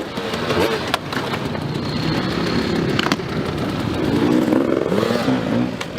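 Dirt bike engine revving up and down, with two sharp clicks about one and three seconds in.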